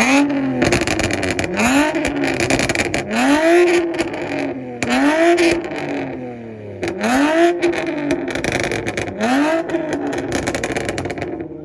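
Toyota Camry engine revved hard again and again on a two-step launch limiter, about six revs that each climb, hang and fall back, with sharp crackling pops from the exhaust; it fades away near the end.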